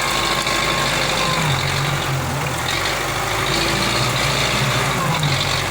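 Belarus tractor's diesel engine running steadily, its pitch wavering slightly.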